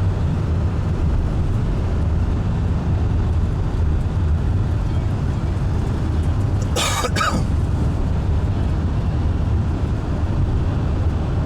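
Steady low rumble of a car's engine and tyres heard from inside the cabin while driving, with one short burst of noise about seven seconds in.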